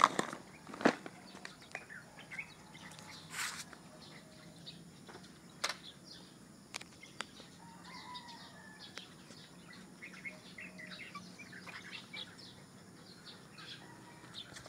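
Small birds chirping, with many short high chirps through the second half. A few sharp clicks and knocks come in the first second and a few more around the middle.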